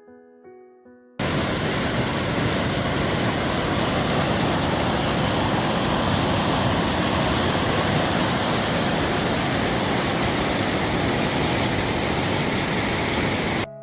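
Waterfall: a loud, steady rush of falling water that cuts in abruptly about a second in, after soft piano music, and cuts off abruptly just before the end.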